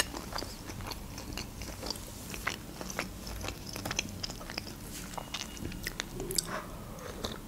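Close-miked chewing of a mouthful of fried beef liver and mashed potatoes: soft, wet mouth clicks and smacks scattered all through.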